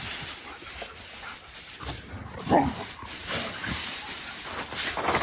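A dog giving a series of short cries; the loudest, about two and a half seconds in, falls in pitch.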